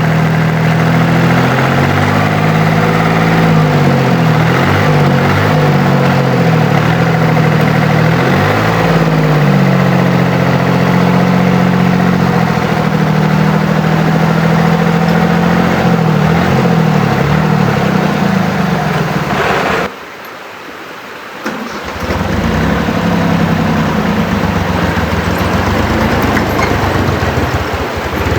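An engine running steadily at idle, its pitch wavering a little. The sound drops away abruptly about twenty seconds in and comes back some two seconds later.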